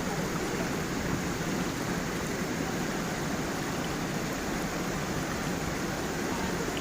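Stream water running over a small waterfall: a steady, even rush of water.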